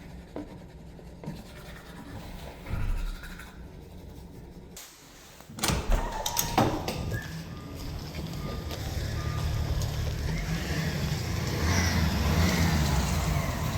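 A motor vehicle running, its steady engine rumble and road noise growing slowly louder through the second half, after a couple of sharp knocks.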